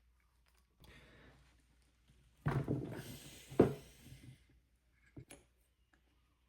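Hand tool working the bolts that hold the distributor to a Gaggia Classic espresso machine's group head: scraping and rattling, with a sharp knock about three and a half seconds in and two small clicks near the end.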